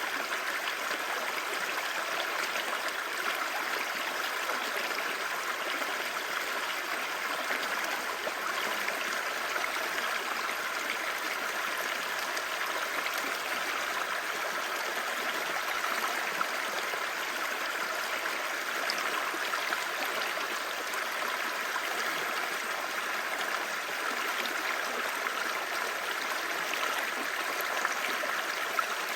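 Clear mountain stream babbling steadily over rocks, an even rushing with no breaks or changes.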